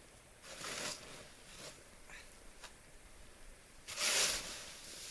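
Snow being shovelled: scraping, swishing strokes of a shovel through packed snow, a few short ones and the loudest about four seconds in.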